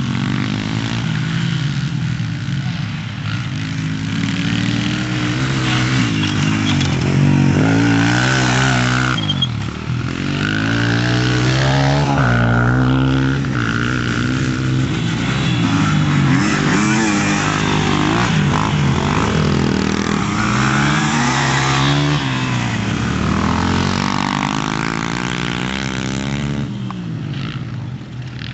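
Dirt bike engines revving up and down, their pitch climbing and dropping over and over as the bikes accelerate, shift and back off around the track.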